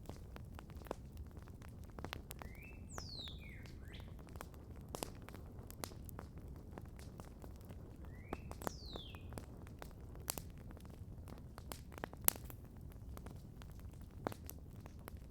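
Wood campfire crackling with irregular sharp pops over a low steady rumble, one pop standing out about 12 seconds in. A bird calls twice, at about 3 and 8.5 seconds in: each call is a short rising note followed by a quick whistle falling from high to lower pitch.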